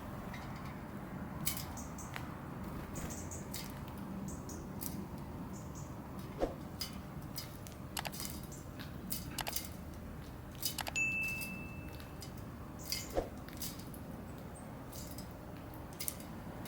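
Small garden birds feeding, with scattered short chirps and sharp clicks over a steady background hum. One high whistled note is held for under a second, about eleven seconds in.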